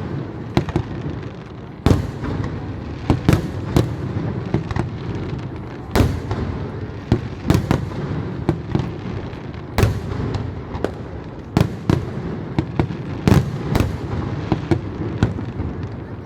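Fireworks going off: a continuous low rumble of explosions with sharp bangs, often one or two a second, at irregular intervals.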